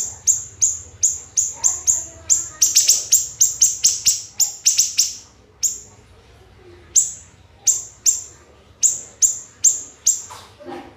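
Siri-siri songbird calling a rapid run of shrill, sharp notes that each start very high and drop, several a second. There is a pause of about a second just past the middle before the notes resume.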